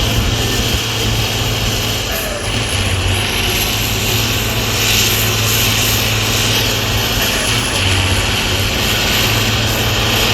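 Heavy 8x8 trial truck's diesel engine running loud and steady.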